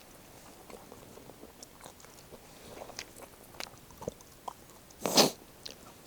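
A person chewing and biting food close to the microphone, with small crunching clicks and one louder crunch about five seconds in.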